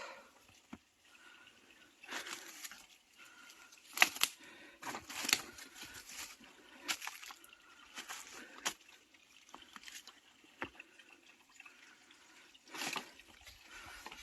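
Footsteps sloshing and splashing through a shallow stream, irregular, with a few sharp knocks among them.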